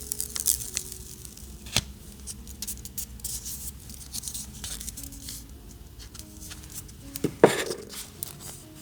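Hands working with craft paper and tape: a run of small clicks, snips and rustles, with one louder sharp crackle about seven and a half seconds in, over soft background music.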